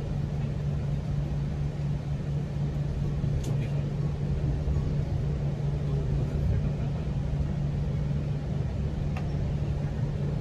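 GO Transit commuter train running along the line, heard from inside the passenger coach: a steady rumble with a constant low hum and a couple of faint clicks.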